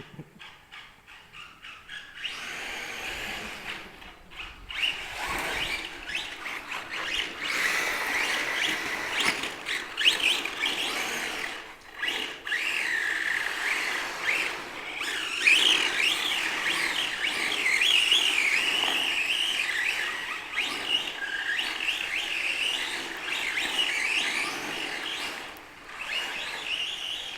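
Electric RC trucks' motors whining, the pitch rising and falling as the throttle is worked, with the tyres sliding on concrete as they drift. It is quieter with a quick ticking for the first two seconds or so.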